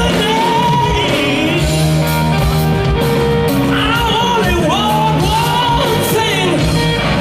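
Live rock band playing, with a male singer's voice sliding and bending over guitar, bass, drums and cymbals.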